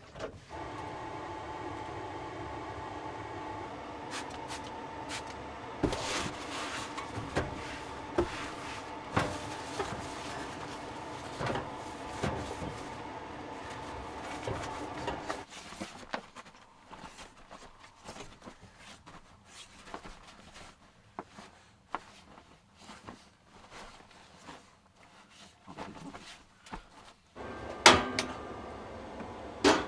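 Kitchen clatter of knocks and clinks, like cupboard doors and utensils, over a steady hum with a whine in it. The hum stops about halfway through. Near the end there is a loud clack and the hum starts again.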